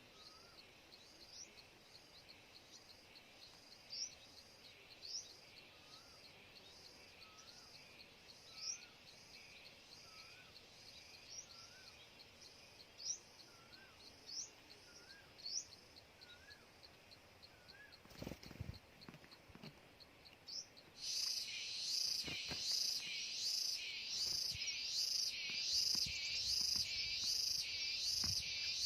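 A bird gives short, high, rising chirps roughly once a second, each with a faint lower curling note. About two-thirds of the way in, a much louder, steady, pulsing high chirring sets in, and a few low thumps come just before and as it starts.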